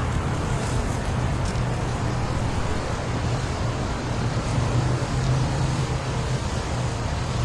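Strong wind blowing steadily, a dense rushing noise over a heavy low rumble.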